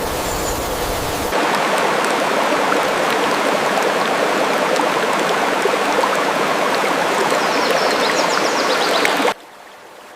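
Steady rushing of a running stream that cuts in abruptly about a second in and cuts off just as suddenly near the end. A few faint high chirps sound over it shortly before it stops.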